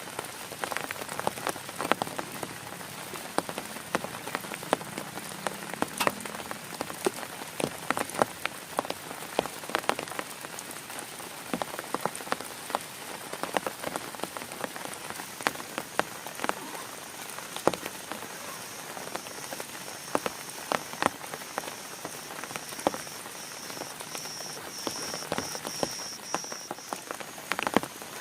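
Heavy rain falling steadily on a tent, with many separate drops tapping sharply on the fabric. From about two-thirds of the way in, a high, rapidly pulsed call sounds over the rain, possibly a frog.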